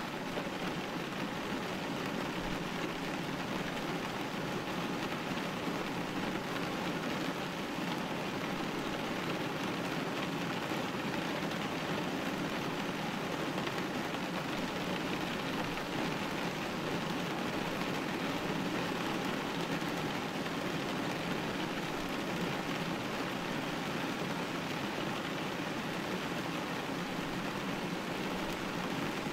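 Rain hitting a glass window pane, a steady, even hiss of drops.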